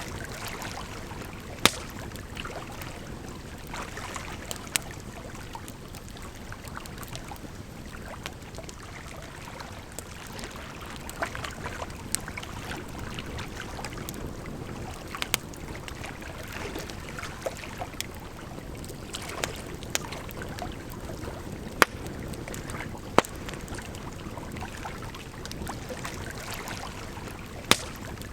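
Campfire crackling, with half a dozen sharp wood pops scattered through, over the steady rush of running water.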